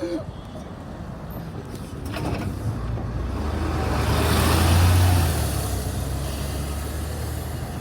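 Heavy diesel road vehicle, a bus or lorry, driving past close by: its low engine hum and tyre noise build to a peak about five seconds in, then fade away.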